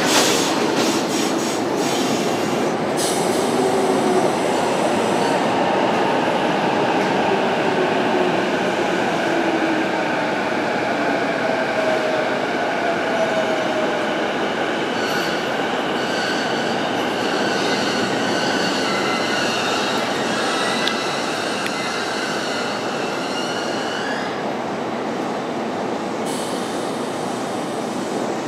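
Toden 8800-series tram moving slowly over points and a tight curve, its wheels squealing for a long stretch with a few clicks over the rail joints near the start. A lower whine from the electric traction motors falls slowly in pitch as the tram slows.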